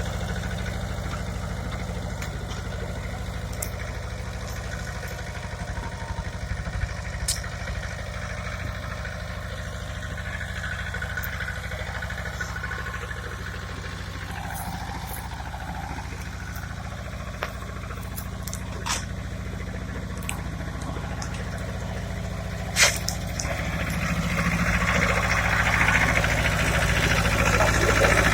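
Pasquali tractor engine running steadily at idle, with a few sharp clicks. It grows louder over the last few seconds.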